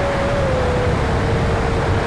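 Electric ducted fan of an E-Flite F-16 RC jet whining steadily over a rush of air noise. Its pitch drops a little about half a second in as the throttle or distance changes.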